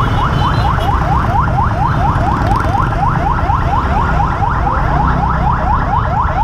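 An electronic alarm sounding a fast, even run of rising chirps, about five a second, over a low rumble.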